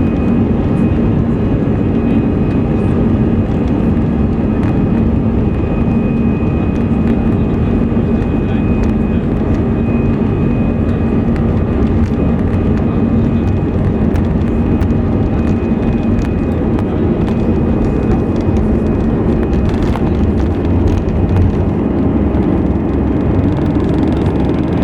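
Steady engine noise heard inside the cabin of an Airbus A320-214, its CFM56 turbofans running at an even setting. A constant low hum carries a faint high whine over it.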